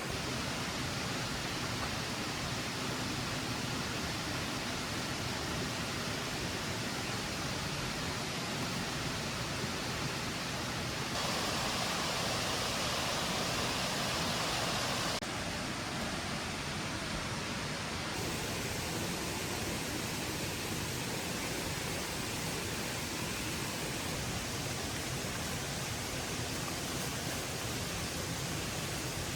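Steady rushing noise with no distinct events. It steps up, louder and brighter, about eleven seconds in, and drops back abruptly a few seconds later.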